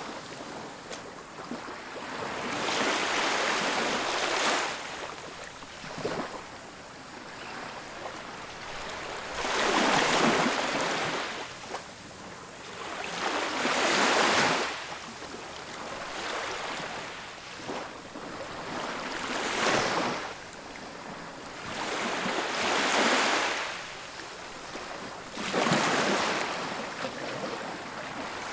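Ocean waves breaking on a beach, each wave a rushing surge that swells and fades, coming every few seconds.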